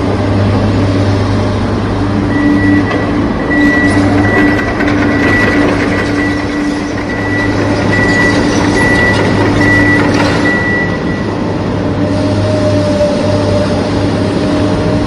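Remote-control toy truck and excavator running: a steady motor hum, with a high beep repeating about once a second that stops about three-quarters of the way in.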